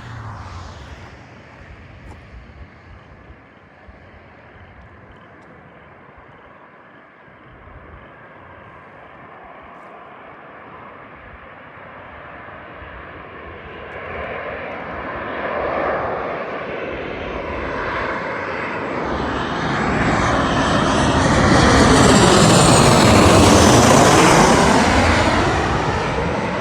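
Boeing 737-800 jet airliner coming in to land, its two CFM56 turbofans faint at first and growing steadily louder as it nears, loudest in the last few seconds as it passes close, with a swirling whoosh that sweeps down and back up in pitch, then starting to fade.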